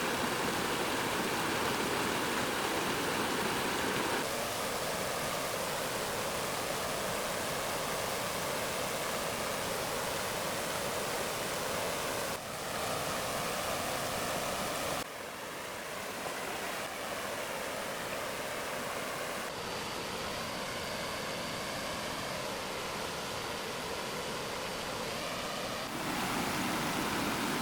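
Steady rushing of flowing stream water, a dense even hiss. Its tone and loudness shift abruptly several times, at about 4, 12, 15, 19 and 26 seconds in.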